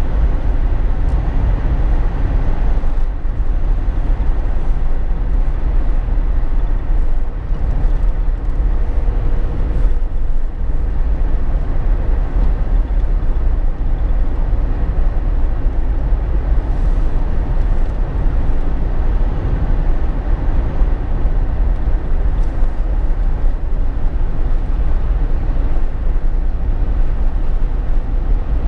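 Steady cabin road noise inside a Jeep Wrangler JK while driving: a deep, even rumble that stays constant throughout.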